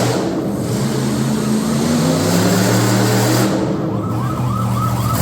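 Monster truck engine running loud under a broad roar. In the last second and a half a siren-like whoop repeats about five times over it.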